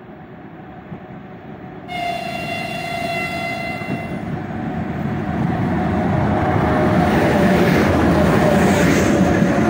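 A 3ES5K Ermak electric locomotive gives one horn blast of about two seconds, starting about two seconds in. The rumble of the approaching freight train then grows steadily louder as the locomotive comes alongside.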